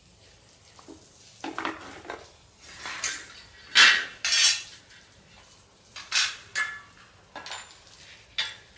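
Metal parts and tools clinking and scraping against each other, about ten separate knocks and scrapes with pauses between them, some leaving a short metallic ring.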